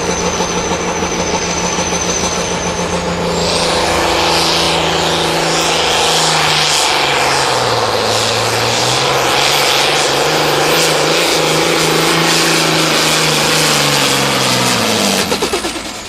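John Deere 4440 pulling tractor's turbocharged six-cylinder diesel at full throttle down the track with the sled hooked on. About three seconds in, the turbo whine climbs high and holds. The engine lugs down under the growing load partway through, recovers, then is shut off near the end and falls away.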